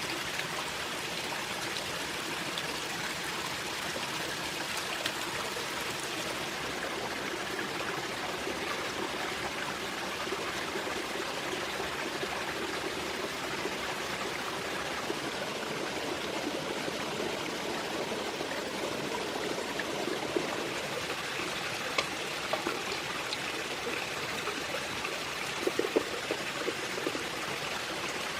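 Steady rush of running stream water, with a few short, sharp clicks in the last third.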